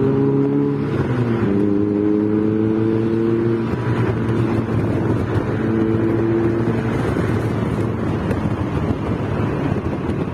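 Motorcycle engine pulling hard under acceleration, its pitch climbing, dropping at a gear change about a second in, then climbing again. From about 4 s the engine tone fades under wind and road rush, coming back briefly around 6 s.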